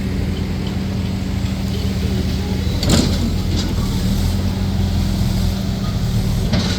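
Vehicle engine running steadily at an even, low pitch, with a sharp knock about three seconds in and another near the end.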